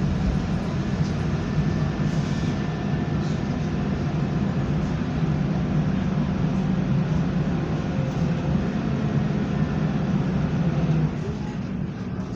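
Scania Enviro 300 single-deck bus heard from on board: a steady engine and drivetrain drone under way, easing off about eleven seconds in.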